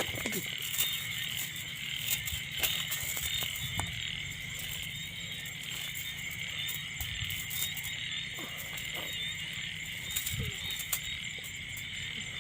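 Insects trilling steadily in a high band, with frogs croaking. Scattered light clicks and knocks run through it.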